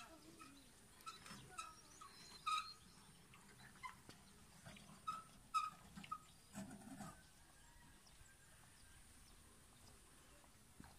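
Scattered short bird chirps over a faint background, a few sharper ones standing out, dying away about seven seconds in.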